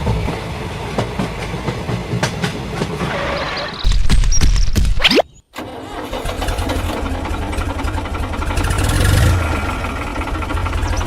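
A small engine running with a low, rattling throb. It gets louder about four seconds in and cuts out abruptly just after five seconds, following a short rising whistle, then runs on steadily.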